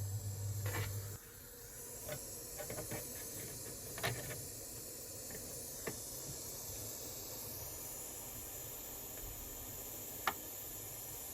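A steady low electric hum that cuts off about a second in, then a background hiss with a few scattered light clicks and taps, typical of small parts being handled at a workbench.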